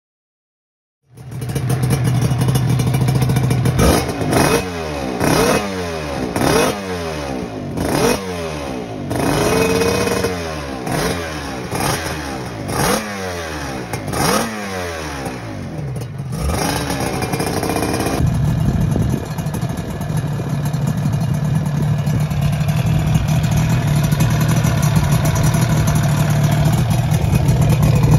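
Yamaha TZR 250 2MA parallel-twin two-stroke engine, fitted with Martin Johnson expansion chambers, coming in about a second in and revved in repeated sharp blips, about one a second, each rising and falling in pitch. From around 18 seconds it settles into steadier running that grows gradually louder.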